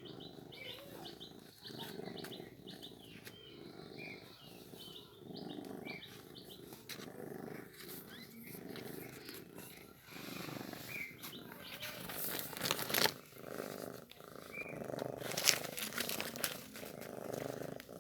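Mother cat purring in a steady rhythm of about one breath cycle per second while nursing newborn kittens, with short high squeaks from the kittens. A few louder scuffling noises come about two thirds of the way in.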